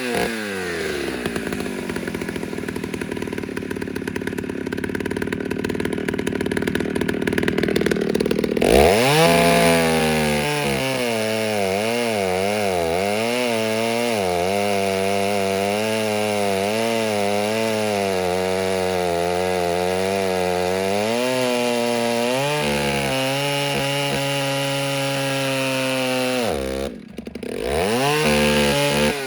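Ported Stihl 08S two-stroke chainsaw running on its stock muffler. It idles, then revs up about eight seconds in and cuts wood, its pitch wavering as the chain loads in the cut. Near the end it drops back and revs up again.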